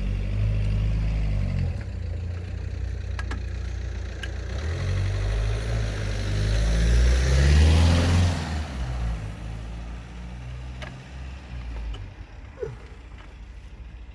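A car driving past: an engine rumble with tyre noise that grows louder to a peak about eight seconds in, then fades away.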